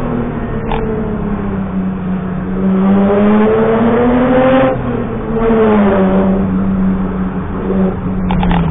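BMW E30 rally car's engine heard from inside the cabin, pulling and revving up hard, dropping briefly about halfway through, then pulling again and easing off near the end. A couple of short knocks, one near the start and one near the end.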